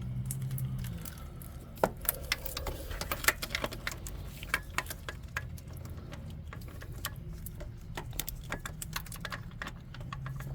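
3/8-inch socket ratchet clicking in short, irregular strokes on a 17 mm deep socket as a starter mounting bolt is worked loose. A low hum fades out about a second in.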